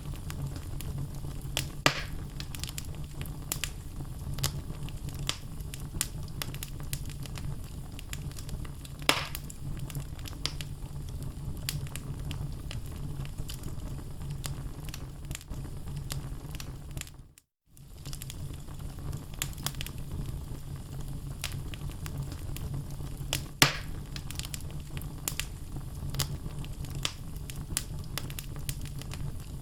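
Wood logs burning in a fireplace, crackling steadily over a low rumble, with frequent sharp pops. The loudest pops come about two seconds in, about nine seconds in and near the end. The sound cuts out for about half a second a little past halfway.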